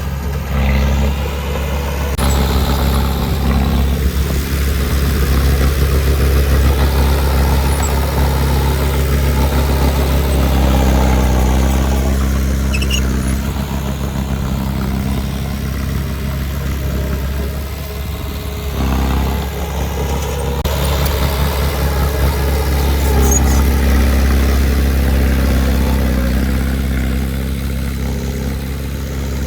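Diesel engine of heavy earthmoving equipment running steadily, its load rising and easing a little, with a shift in the sound about two seconds in and again past the middle.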